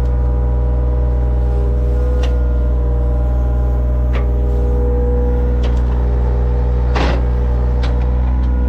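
An engine running steadily at a constant speed, with a few sharp clanks over it, the loudest near the end.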